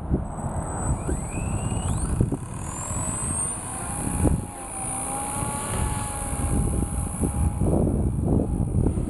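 Small electric RC helicopter with a brushless motor and three-blade rotor: its motor and rotor whine rises in pitch about two seconds in, then runs fairly steadily. Wind rumbles on the microphone throughout.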